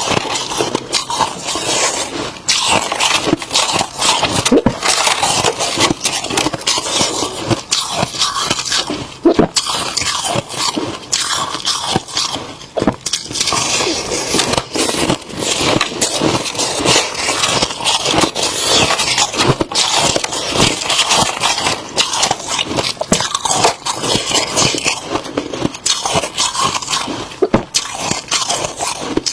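Close-miked freezer frost being crunched and scraped: a continuous run of dense, crisp crackling crunches.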